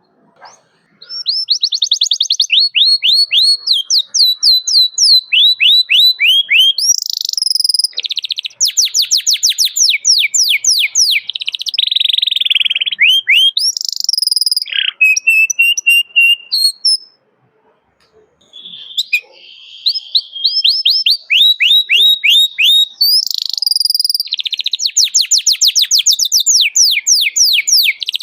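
Domestic canary singing in full voice: fast rolling trills of repeated down-sweeping notes, in phrases broken by short pauses, with one longer pause of about two seconds past the middle.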